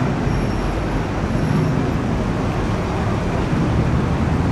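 Steady motor vehicle engine and road noise, with no sudden events.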